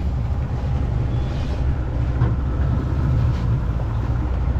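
Boat motor running steadily under way, a constant low rumble.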